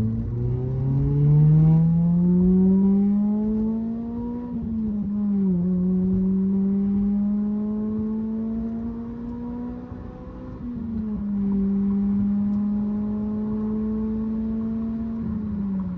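A 2006 Acura RSX Type-S's K20Z1 inline-four is driving through an Invidia N1 catback exhaust. The exhaust note rises in pitch as the car accelerates for the first few seconds, and the pitch drops briefly about five seconds in and again near the eleven-second mark. Between those drops it holds a fairly steady pitch while cruising, and it eases off slightly near the end.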